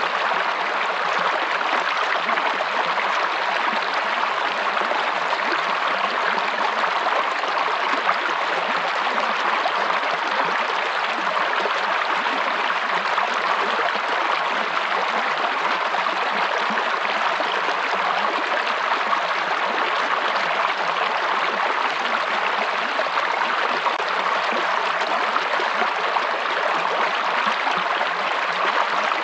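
Running water of a stream, a steady even rush with no pauses or surges.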